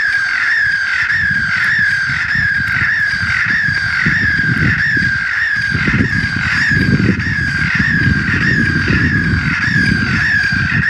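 Airport runway electronic bird repeller sounding a fast, evenly repeating chirp, a little over twice a second, over a steady low rumble.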